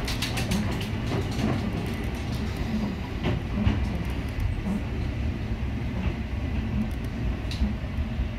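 Ohmi Railway train running, heard from inside the car: a steady low rumble of wheels on rails, with a few sharp clicks.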